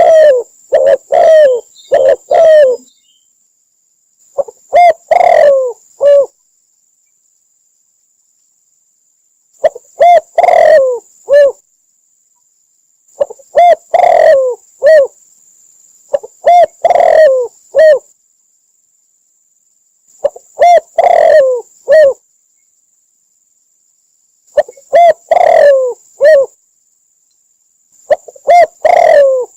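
Spotted dove cooing, a phrase of several low coo notes about every 3 to 4 seconds, with short silences between. It is a looped dove call used as a lure for trapping doves.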